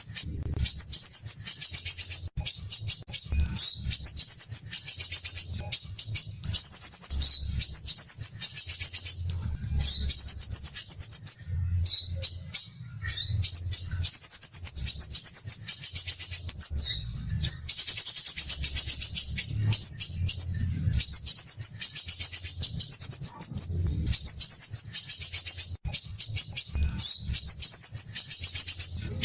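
Crimson sunbird singing: dense, rough, rapid high-pitched trills in phrases of about one to two seconds, one after another with short breaks.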